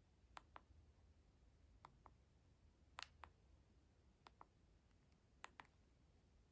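Light sharp clicks coming in pairs, about five pairs, one every second and a half or so, against near silence.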